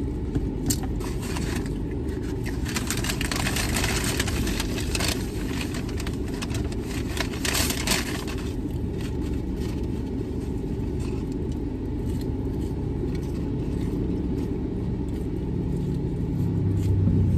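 Steady low rumble of a car idling, heard from inside the cabin. Over it, paper and cardboard fast-food packaging rustles and crinkles in the first half as it is handled.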